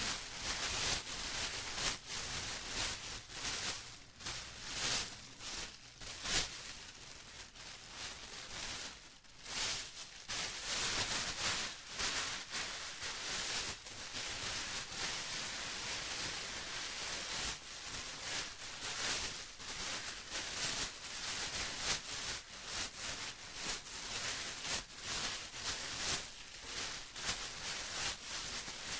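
Plastic being crinkled and rustled by hand without pause, a dense run of irregular high-pitched crackles.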